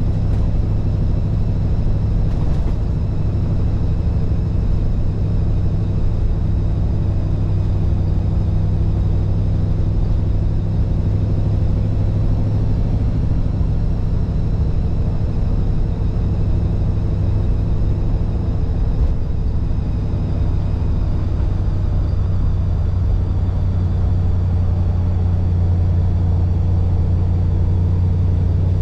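1948 Mercury station wagon's 239-cubic-inch flathead V8 running steadily at cruising speed, a low steady drone with small shifts in pitch, and a short knock about two and a half seconds in.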